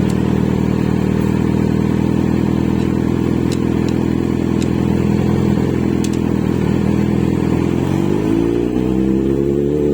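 Kawasaki Z900 inline-four motorcycle engine running at steady revs, with the engine speed rising near the end.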